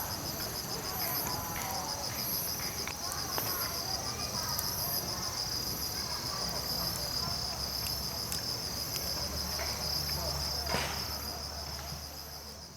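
Insects chirring steadily in a high, pulsing trill, with scattered sharp pops and crackles from a campfire, one louder pop near the end. The sound begins to fade out in the last second.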